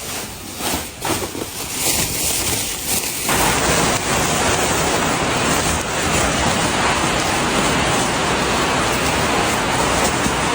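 Light rustling and handling noises, then an abrupt change about three seconds in to a loud, steady rushing noise.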